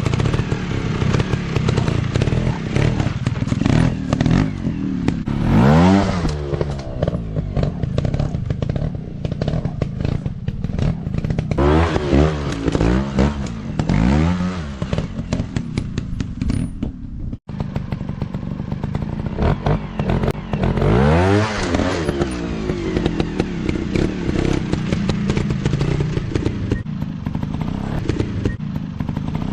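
Dirt bike engines revving hard again and again, the pitch climbing steeply and dropping back several times, with clattering and thuds from the bikes over rough ground. The sound cuts out for an instant about halfway through.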